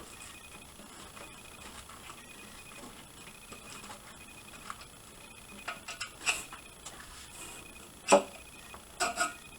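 Faint, regular ticking, a little more than one tick a second, with a few sharp knocks in the last few seconds.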